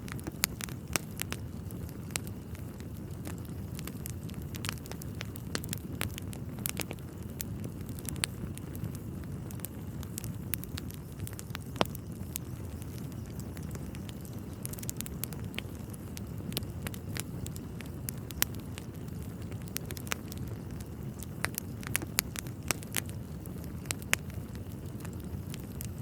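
Wood fire burning in a fireplace: a steady low rumble of flames with frequent irregular crackles and sharp pops from the burning logs, a few of them louder.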